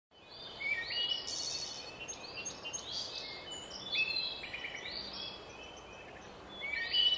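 Songbirds chirping and singing over a soft outdoor background hiss: a string of short high whistles and trills, some sliding upward, fading in at the start.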